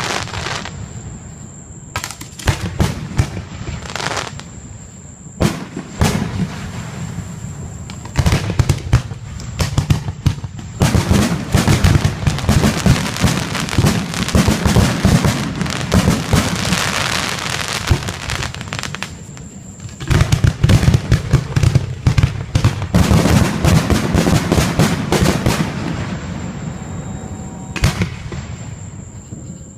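Fireworks going off: separate bangs at first, then rapid, dense volleys of crackling bursts about a third of the way in and again soon after, thinning out near the end.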